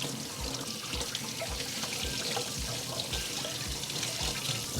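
Tap water running and splashing over chicken thighs being rinsed in a sink, with background music keeping a steady beat of about two thumps a second.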